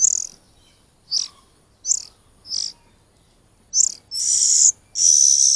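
Oriental magpie-robin chicks begging for food: several short, high chirps spaced about a second apart, then two longer, harsh, rasping calls near the end. The calling is the chicks' sign of hunger while being hand-fed.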